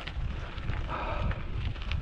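Mountain bike rolling down a rough dirt trail, its tyres and frame rattling with quick irregular clicks and knocks over stones, with low wind rumble on the microphone.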